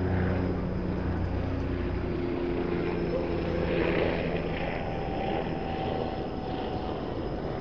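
A steady low mechanical drone, like a motor or engine running, with a hiss over it.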